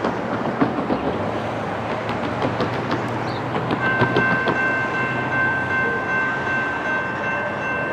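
Intermodal freight train passing close by, wheels knocking and clacking over the rail joints. About four seconds in, a steady high-pitched chord of several tones joins and holds.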